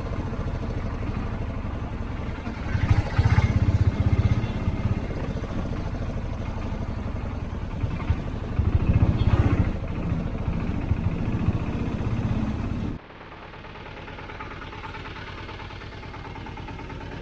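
Motor vehicle engine and road noise, swelling louder twice as traffic passes. It then cuts off abruptly about thirteen seconds in to a quieter steady background hum.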